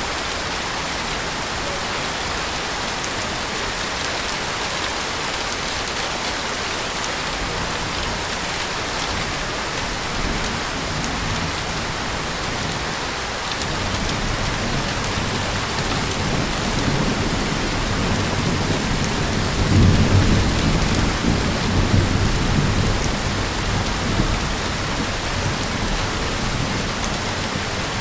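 Heavy rain falling steadily, with thunder rumbling low from about halfway through, loudest around two-thirds of the way in, then easing off.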